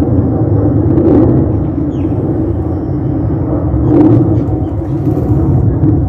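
Jet airliner passing over, a loud steady low rumble, with a few faint bird chirps above it.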